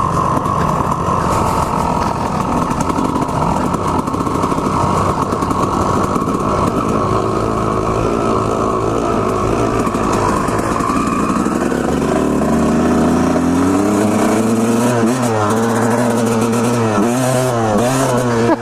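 Honda CR250R's single-cylinder two-stroke engine running, then revving up and down repeatedly in the second half as the throttle is worked.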